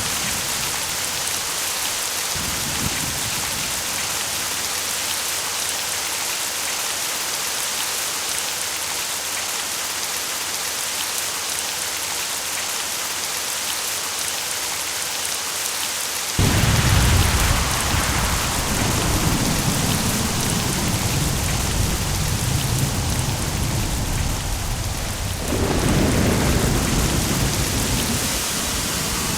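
Steady rain hissing, then about halfway through a sudden deep rumble of thunder that rolls on and swells again near the end.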